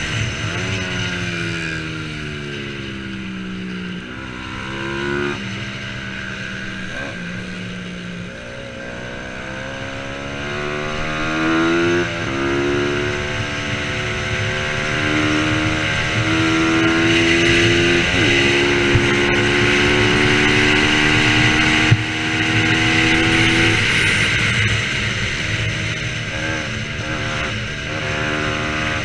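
Bajaj Pulsar 200 NS single-cylinder engine racing on track, its pitch falling and climbing as the rider works through the gears, with sudden jumps at the gear changes. Two brief sharp clicks come about two-thirds of the way through.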